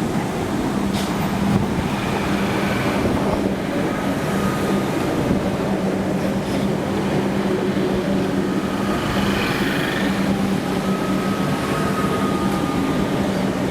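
A commuter train running at the station: a steady low hum with faint whining tones that come and go.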